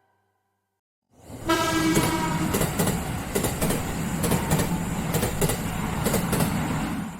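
Train sound: a short horn note about a second and a half in, over a steady running rumble with wheels clacking over rail joints, fading out at the end.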